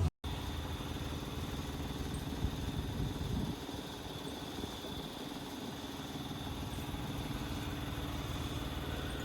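Low steady rumble of vehicle or traffic noise with a faint steady high-pitched tone, and a few light knocks a few seconds in.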